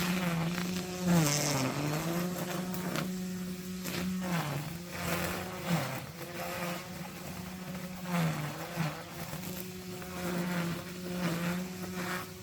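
Petrol brushcutter running at high speed with a steady buzz. Its pitch sags briefly several times as the line bogs down cutting into grass, with a swishing of cut vegetation.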